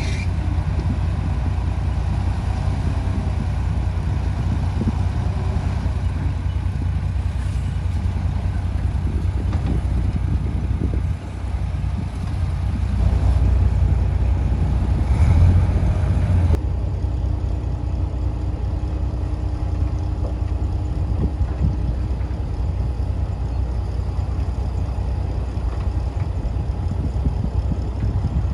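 Heavy diesel engine of earthmoving machinery running with a steady low rumble, getting louder for a few seconds in the middle.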